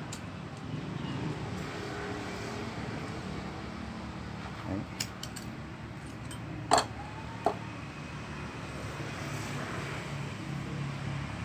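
A few sharp metal knocks and clanks: small taps about five seconds in, then one loud clank followed by a lighter one half a second later, over a steady low hum.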